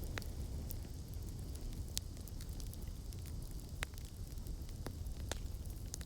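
Campfire crackling: a handful of sharp, scattered pops and snaps from burning wood over a low, steady rumble of the flames.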